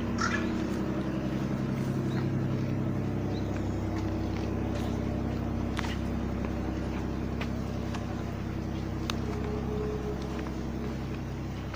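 A motor running steadily with a low, even drone, with faint sharp ticks now and then over it and a brief high chirp at the very start.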